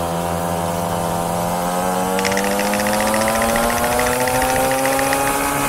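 49cc two-stroke pocket bike engine accelerating hard from a standing start, its pitch rising steadily. A fast rattling ticks over it from about two seconds in until near the end.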